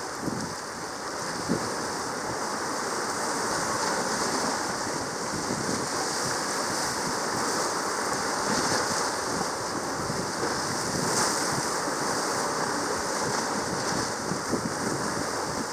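Steady rushing sea-water noise, an even wash with no distinct waves or events standing out.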